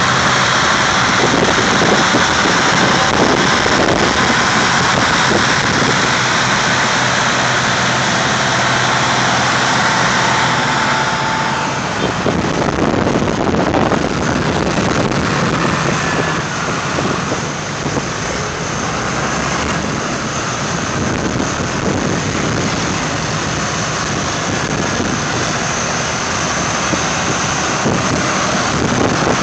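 Vintage tractor engines running as tractors pull out and drive past, a continuous loud engine sound. The engine sound changes character about twelve seconds in.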